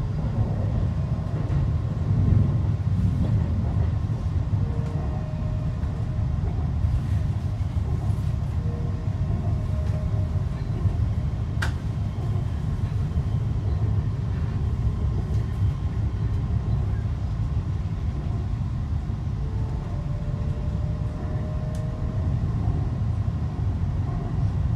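A Canada Line Hyundai Rotem train running on its elevated guideway, heard from inside the front car: a steady low rumble of wheels on rail, with faint rising whines now and then and a single sharp click about halfway through.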